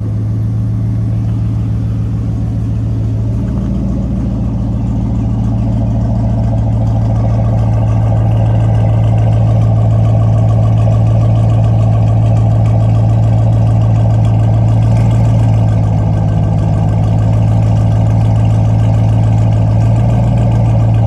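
2010 Ford Mustang GT's 4.6-litre three-valve V8 idling steadily while warming up. A slight change in its note comes about three and a half seconds in.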